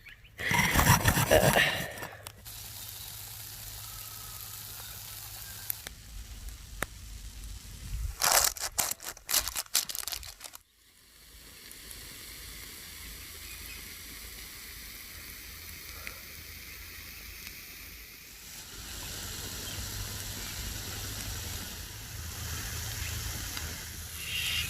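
French toast frying in a pan over campfire coals, a steady sizzle. Two louder bursts of clattering handling noise come near the start and about eight seconds in, and the sizzle gets louder in the last few seconds.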